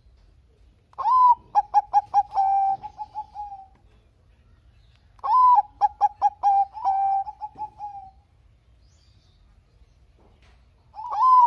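Zebra dove (perkutut bangkok) singing: two full song phrases about four seconds apart, and a third starting near the end. Each phrase opens with an upward-gliding note, runs into a quick string of short coos, and ends in a longer trilled coo.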